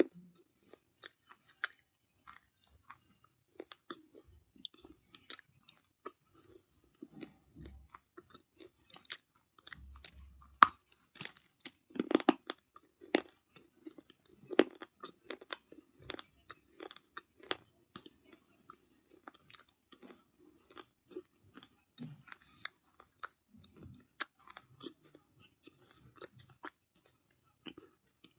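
A person biting and chewing pieces of baked clay, close up, with irregular sharp crunches and crackles. The crunching is densest and loudest about halfway through.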